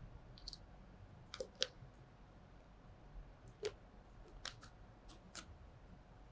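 Light, sharp clicks and taps of a spatula against glassware as a dry solid is transferred into a test tube, about eight scattered ticks with the loudest about one and a half seconds in.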